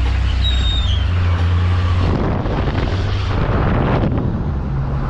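A road vehicle driving: a low engine drone that shifts pitch about one and two seconds in, under a rush of road and wind noise that swells in the middle.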